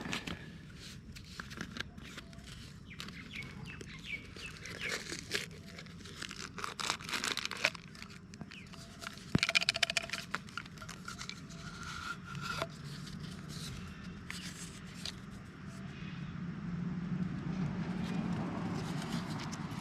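Handling a small geocache container and its contents at close range: irregular rustling, crinkling and sharp clicks, with a few short chirps and a low steady hum building near the end.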